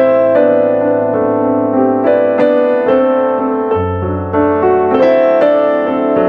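Background piano music: notes and chords struck about every half second, each ringing on.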